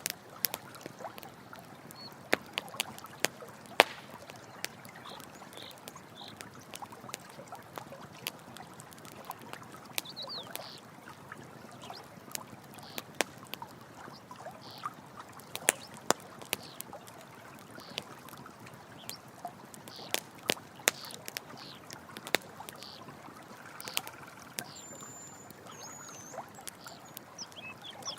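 Campfire crackling, with irregular sharp pops and snaps, over a steady rush of running water.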